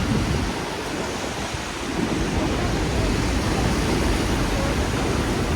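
Steady hiss of heavy rain on a city street, with a low rumble under it that drops away about half a second in and comes back at about two seconds.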